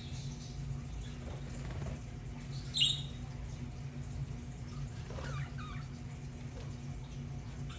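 Budgerigars calling: one sharp high chirp about three seconds in and a brief burst of warbling chatter a couple of seconds later, over a steady low hum.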